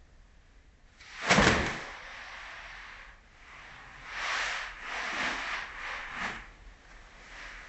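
Long hair being handled close to the microphone: a loud whoosh and thump a little over a second in, then a run of rustling swishes.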